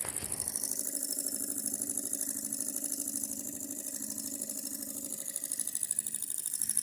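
Tarot flame-licker beam engine running with a flame under it, a steady, fast, even mechanical clatter from its moving parts.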